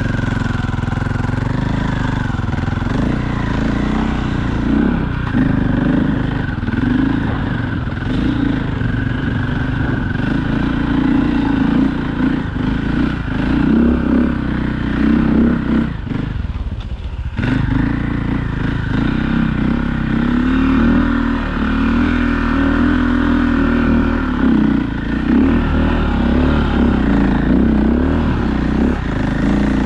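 2001 KTM EXC 400's single-cylinder four-stroke engine running under load as the dirt bike is ridden through deep snow, the engine note rising and falling with the throttle. The note drops briefly a little past halfway, then picks up again.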